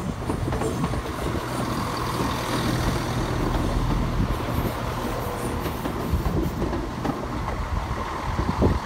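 Class 170 Turbostar diesel multiple unit running past along the platform: a steady low diesel drone with wheel and rail noise and a few light clicks.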